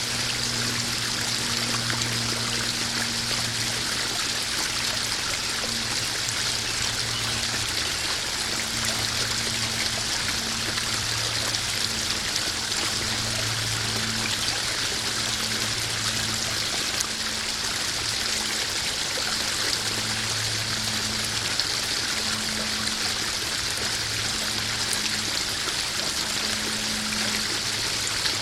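Small garden waterfall splashing steadily into a koi pond, an even rushing trickle, with a low hum that comes and goes.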